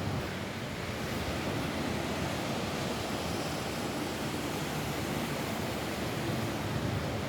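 Steady rain falling on a roof: an even, unbroken hiss with no single drops standing out.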